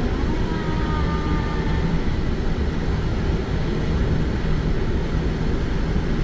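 Steady low rumble of an airliner's cockpit while it taxis, engines running and air flowing, with a faint steady tone briefly in the first two seconds.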